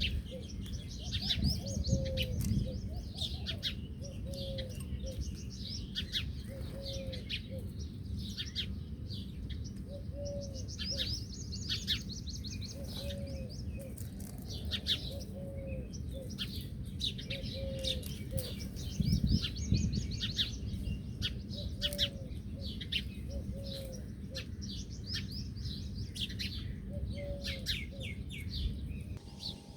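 A group of birds chirping in many quick, overlapping high notes, with a short low note repeating every second or two over a steady low rumble.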